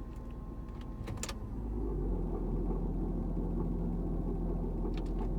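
2002 Kia Sedona's engine idling. About a second and a half in, as the revs drop, a low steady growl comes in louder and then holds. The owner suspects a bad pulley or the power steering pump behind it.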